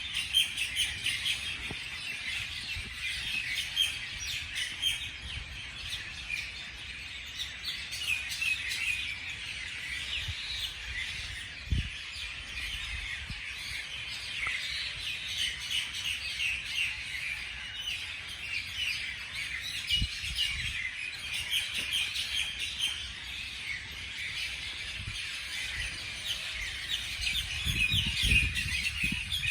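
Many small birds chirping together in a continuous chorus of short, high notes, with a few low thumps and some low rumble near the end.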